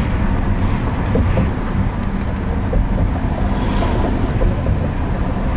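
Steady road noise inside a moving car: a low rumble of tyres and engine at freeway speed.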